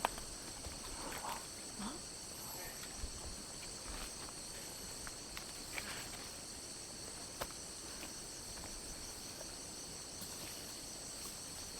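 A steady, high-pitched chorus of jungle insects, with a few faint ticks and rustles.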